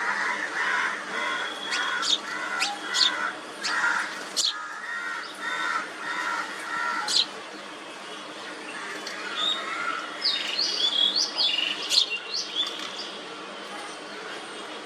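Small birds chirping and calling: a quick run of repeated chattering notes with sharp high chips for the first half, then higher, more varied calls for a few seconds past the middle.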